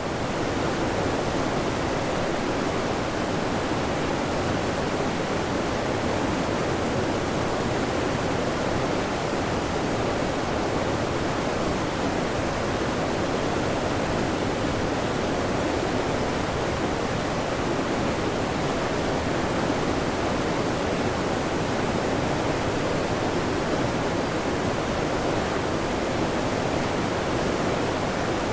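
Waterfall: falling water in a steady, unbroken rush that stays even throughout, fuller in the lower range than in the hiss above.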